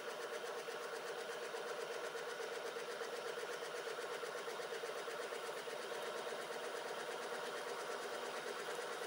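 Prototype washing machine spinning its drum as the rinse cycle picks up into spin, the motor and drum running with a steady, even whirring hum. The run is smooth.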